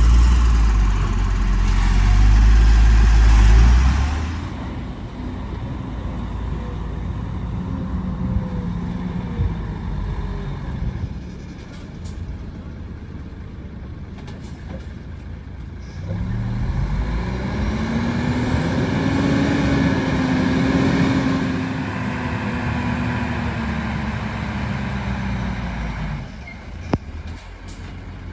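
Heavy diesel engine of a working vehicle, revving up and easing off again, its pitch climbing for several seconds and then falling away; a loud low rumble fills the first few seconds.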